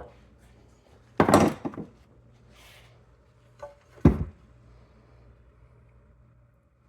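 Two sharp knocks, about a second in and about four seconds in, as the spark plug tube seals are knocked out of a 2002 Honda Civic's valve cover. The seals are worn: they let engine oil into the spark plug tubes.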